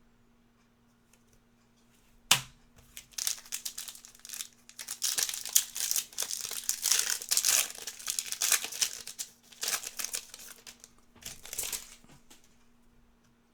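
Crinkling of a basketball trading-card pack wrapper being torn open and handled: a sharp snap a couple of seconds in, several seconds of crinkling, then a shorter burst near the end.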